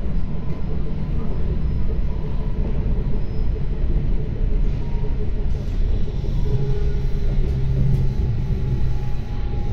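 Running noise inside an SBB RABe 520 (Stadler GTW) electric railcar under way: a steady rumble of wheels on the track, with a faint motor whine that shifts slightly in pitch.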